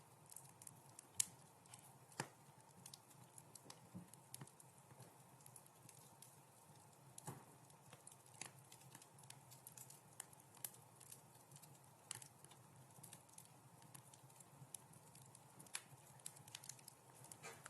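Wood fire crackling in a fireplace: faint, irregular pops and snaps over a soft steady hiss, with the sharpest snaps about a second and two seconds in.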